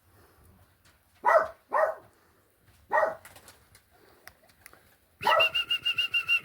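A dog barking three times, short sharp barks, then near the end a high warbling, rapidly pulsing whistle-like tone.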